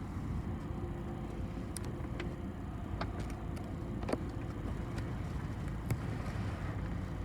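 City bus riding along, heard from inside the cabin: a steady low rumble of engine and road with a faint hum, and a few short clicks and rattles from the body and fittings.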